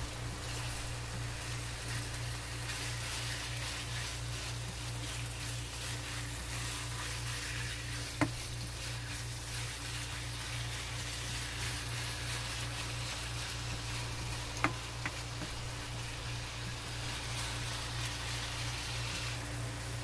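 Sliced beef sizzling in a non-stick wok as it is stirred with a spatula, over a steady low hum. Two sharp clicks, about eight and fifteen seconds in.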